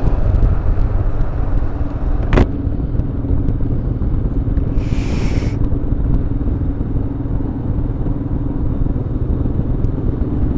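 Royal Enfield Himalayan's single-cylinder engine running steadily on the road, under a low rumble of wind. There is a sharp click about two and a half seconds in, and a short high-pitched sound around the middle.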